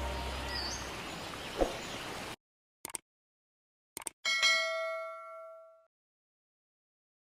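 Music fading out, then a couple of short clicks and a single bell-like ding about four seconds in that rings for about a second and a half before dying away.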